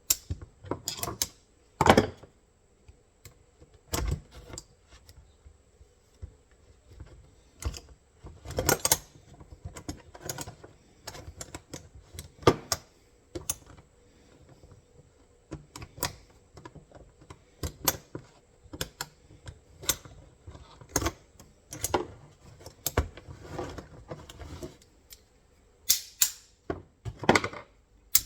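Irregular metal clicks, taps and clanks of steel foothold-trap parts being handled and fitted together by hand, with the loudest knocks about two seconds in and around nine and twelve seconds.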